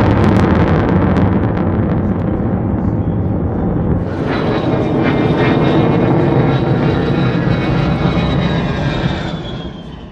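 An F-35A Lightning II's jet engine, a Pratt & Whitney F135 afterburning turbofan, heard as the jet passes: a heavy rumble with crackle in the first second or so. About four seconds in, a high steady whine joins it, and the sound fades away at the very end.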